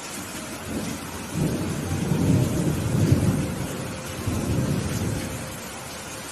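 A roll of thunder over steady rain: a low rumble swells about a second in, peaks in the middle and dies away near the end, while the rain hisses throughout.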